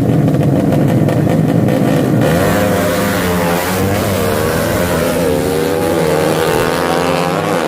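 A 200cc motorcycle engine running loudly, steady at first, then revved up and down repeatedly from about two seconds in.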